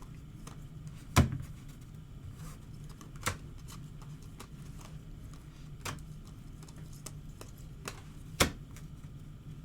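Trading cards and their packaging handled on a table: five sharp clicks or taps spaced a second or two apart, the loudest about a second in, over a steady low hum.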